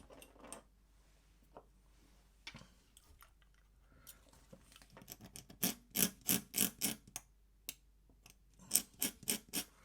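A run of light, irregular clicks and taps, sparse at first, then coming in two quick clusters, the first about five seconds in and the second near the end.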